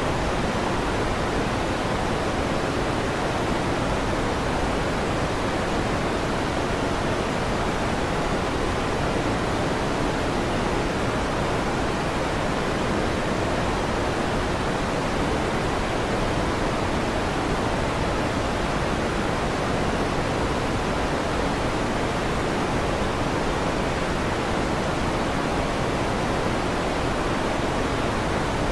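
Electric fan running with a steady, even whooshing hiss, heaviest in the low and middle range, with no thunder claps.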